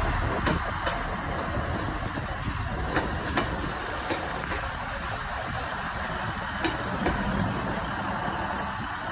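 A train in the station: a steady low engine rumble with a scattered handful of sharp metallic clicks, loudest at the start and easing off slightly.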